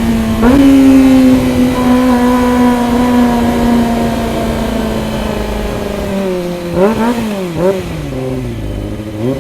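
Kawasaki ZX25R's 250 cc inline-four motorcycle engine running at high revs. Its pitch jumps up about half a second in, then slowly sinks as the bike holds speed. Near the end it gives a few quick revs, each rising and falling.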